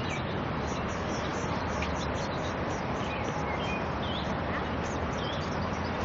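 Small birds chirping in short, quick calls, many times over, above a steady background hiss.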